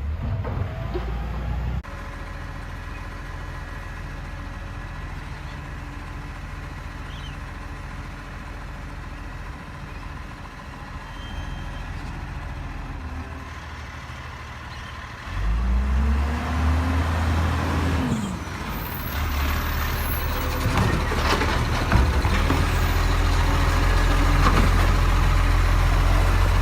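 Garbage truck's diesel engine running steadily, then revving up and back down about fifteen seconds in and staying louder afterwards. There is a single sharp knock about twenty-two seconds in.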